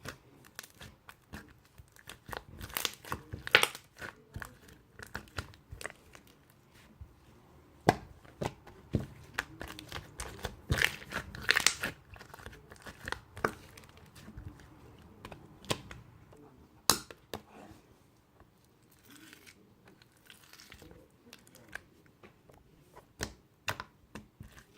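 Slime being squished, stretched and pressed by hand, giving irregular crackling and popping clicks. The clicks are loudest in clusters a few seconds in and near the middle, with one sharp snap about two-thirds of the way through.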